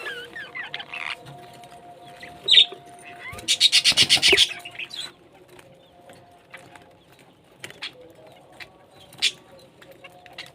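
Parrots calling: a sharp squawk about two and a half seconds in, then a loud rapid run of harsh notes, about eight a second for a second or so, and another short sharp call near the end.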